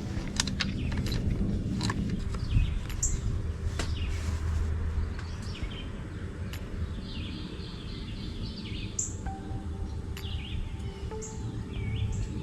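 Birds chirping in the background: short downward-sweeping chirps and a quick run of repeated notes, over a low steady rumble, with a few light clicks in the first couple of seconds.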